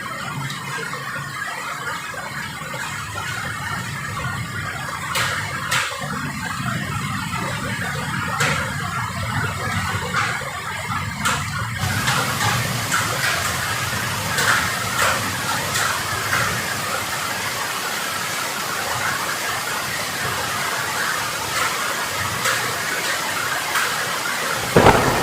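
Heavy rain pouring down steadily, with a few sharp taps in the first half. About halfway through, the downpour grows louder and hissier.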